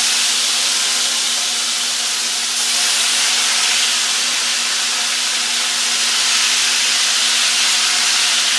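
Chicken strips sizzling loudly and steadily as they fry in a hot pan of butter, olive oil and bacon grease.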